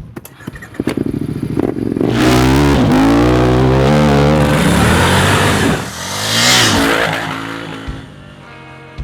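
Motorcycle engine revving, its pitch rising and falling, loudest from about two seconds in, with a second surge a little later before it fades away near the end.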